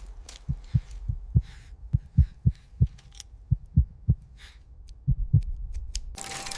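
Heartbeat sound effect: low thuds, mostly in lub-dub pairs, beating irregularly. A louder steady noise comes in near the end.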